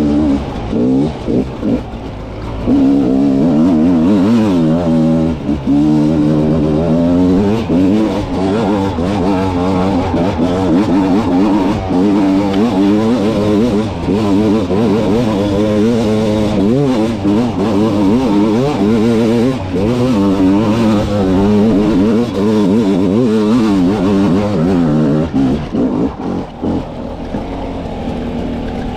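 300 cc two-stroke dirt bike engine revving up and down over and over as it is ridden through rough enduro terrain, pitch rising and falling with the throttle and short chops in between. Near the end it settles to a lower, steadier note.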